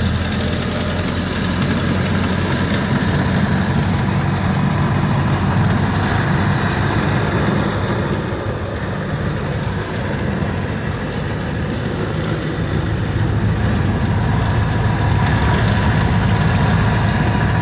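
1929 Ford Model A's four-cylinder engine running steadily, heard from inside the car, with a slight dip in loudness midway.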